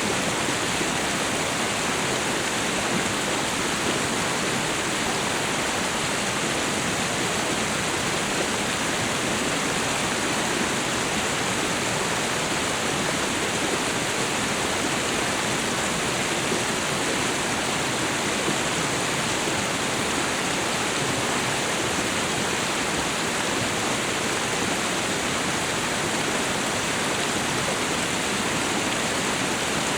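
Waterfall and river water rushing in a steady, unbroken wash of sound that does not change.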